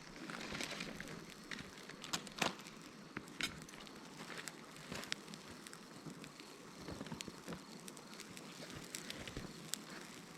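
A small fire catching in dry tinder from a sudare screen blind, crackling with many irregular sharp pops over a soft hiss; the loudest pops come about two seconds in.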